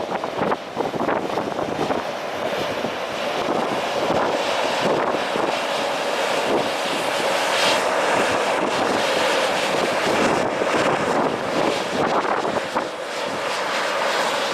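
Strong wind buffeting the camera microphone: a steady, gusty rush that swells and dips.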